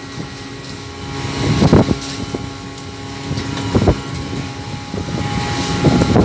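Longline fishing boat's engine running steadily, with loud rushing surges of wind and sea noise about every two seconds.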